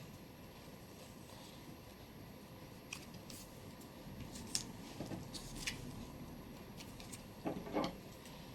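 Faint paper handling: a few soft, scattered crinkles and taps as paper is pulled off and folded.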